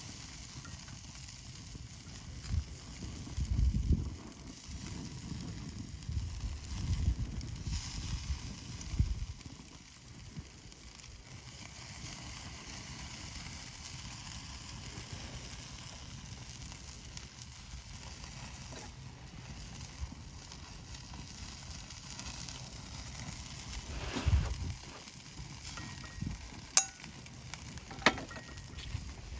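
Meat sizzling on a grill over a campfire, a steady hiss, with low rumbles in the first ten seconds and again later, and a few sharp clicks near the end.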